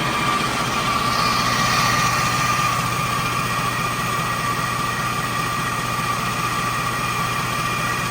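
Detroit Diesel DD15 14.8-litre inline-six diesel engine idling steadily, with a constant whine riding over the engine note.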